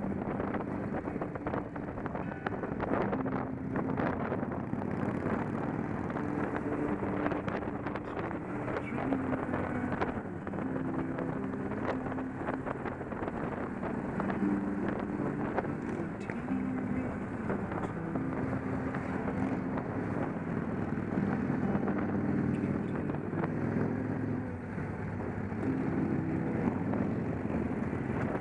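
Victory motorcycle's V-twin engine running on the road, its pitch stepping up and down with throttle and gear changes, under steady wind rush on the camera microphone.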